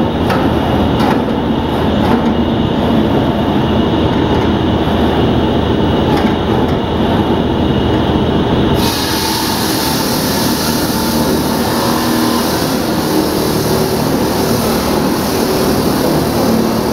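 Loud, steady, continuous machine noise with a heavy low rumble.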